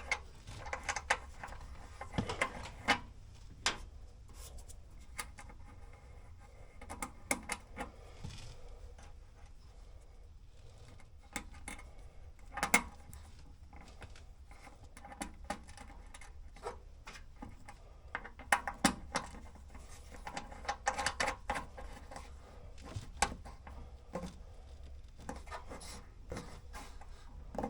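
Scattered small clicks, taps and rubbing of hand work on a 12 V diesel heater's rear screw terminal: a washer coming off and the negative cable being screwed back on. Some clicks come in short clusters, over a low steady hum.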